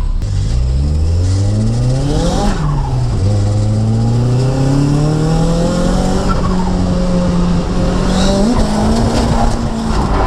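Nissan S14's turbocharged SR20DET four-cylinder engine revving hard, climbing in pitch, dropping sharply at a gear change about three seconds in, then climbing again, with tyres squealing as the car drifts.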